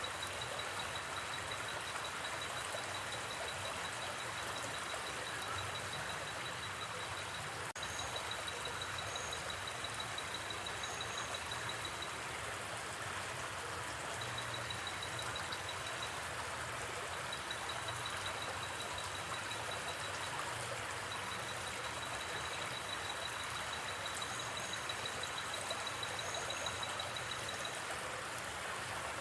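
Gently flowing river, a steady rushing of water, with a night insect trilling in a high, fast-pulsing note that stops and restarts several times. A few short, higher chirps come now and then.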